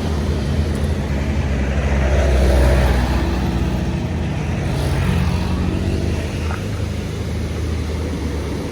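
Tour bus's diesel engine running as it passes, swelling to its loudest about two and a half seconds in, then easing off.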